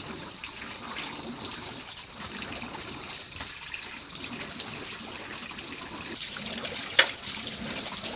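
Water trickling steadily, with one sharp knock about seven seconds in.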